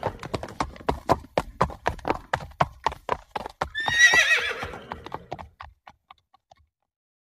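A horse's hooves clip-clop in a quick, steady rhythm. The tail of a whinny ends just as it begins, and a loud falling whinny comes about four seconds in. The hoofbeats fade away near the end.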